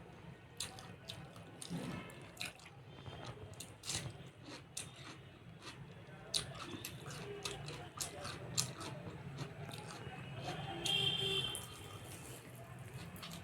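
Close-up eating sounds: chewing and wet mouth clicks with many short, sharp smacks. About eleven seconds in comes a brief high-pitched tone, the loudest sound in the stretch.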